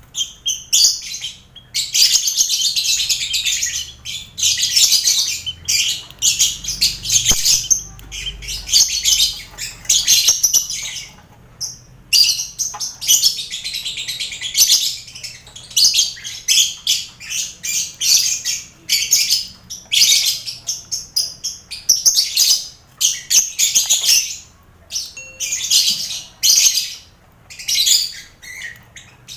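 Colony of lovebirds mixed with finches, a dense din of high, shrill chattering and chirping in runs of a second or two broken by short pauses.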